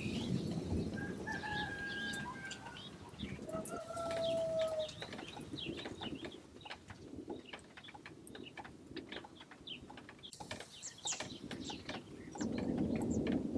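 Birds calling outdoors: two long, even-pitched calls, about a second in and about three and a half seconds in, over many short high chirps. A low rumble builds near the end.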